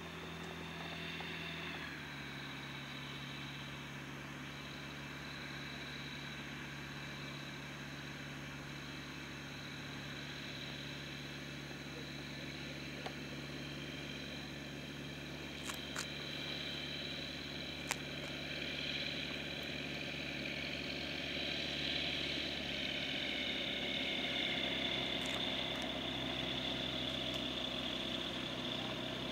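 Light propeller aircraft's piston engine running steadily, its pitch dropping slightly about two seconds in, then slowly growing louder.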